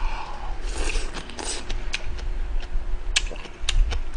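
Close-miked chewing of crunchy fresh kimchi (geotjeori), irregular crisp crunches and mouth clicks.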